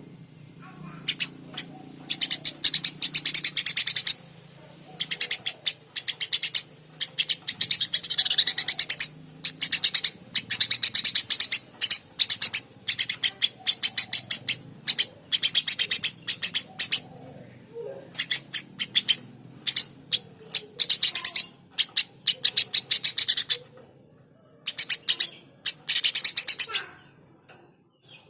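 Eurasian tree sparrow chirping energetically: rapid runs of sharp, high chirps in bursts of a second or two, repeated with short pauses.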